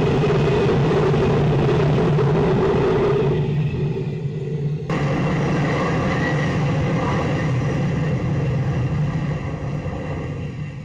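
Jet engine running steadily with a loud roar and a low hum, changing abruptly about three and a half seconds in and again at five seconds.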